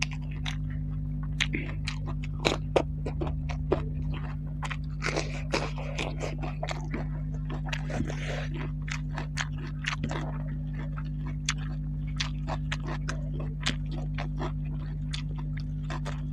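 Close-miked eating: wet chewing and many irregular mouth clicks from a mouthful of buffalo curry and rice, mixed with fingers squishing rice through the gravy. A steady low hum runs underneath.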